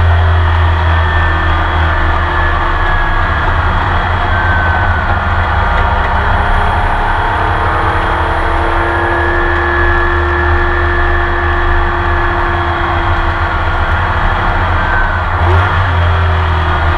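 Porsche 911 RSR racing engine heard onboard from inside the cockpit, a loud steady drone that holds nearly the same pitch throughout.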